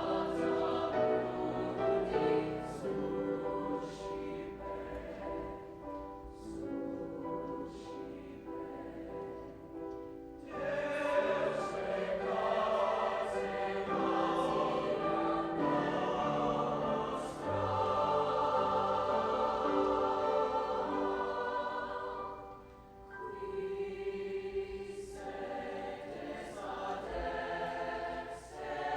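High school choir singing in sustained phrases, growing louder and fuller about ten seconds in, with a brief drop a little after twenty seconds.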